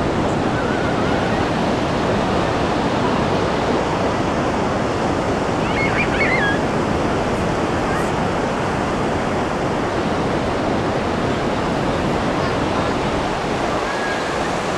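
Ocean surf breaking on a beach: a steady, continuous rush of wave noise.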